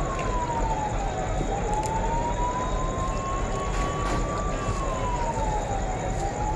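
Emergency vehicle siren on a slow wail, its pitch falling quickly and then climbing slowly, about twice in the span, over steady street and crowd noise.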